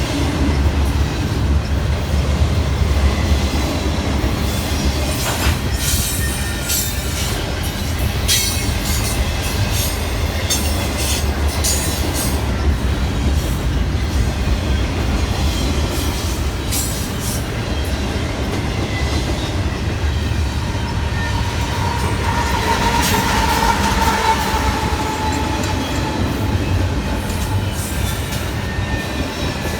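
Train rolling past, its wheels rumbling steadily and clicking sharply over the rail joints. Near the two-thirds mark a steady wheel squeal rises over the rumble and then fades.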